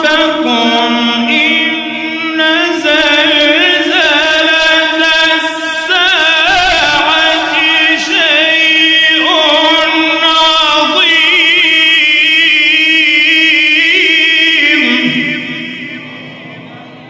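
A Quran reciter's voice drawing out a long, ornamented melodic line with wavering pitch, in the chanted style of tajwid recitation. It fades out near the end.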